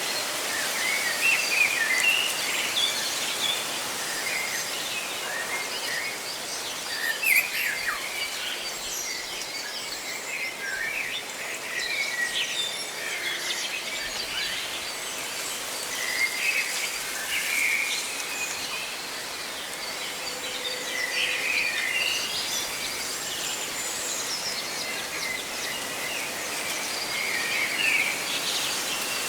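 Several birds chirping in short, scattered calls over a steady hiss of rustling leaves.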